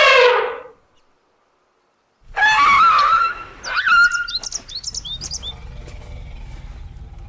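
An animal's pitched call dies away, then after a short silence a wavering animal call is followed by a quick run of short, high, downward-sliding bird chirps over a low rumbling background.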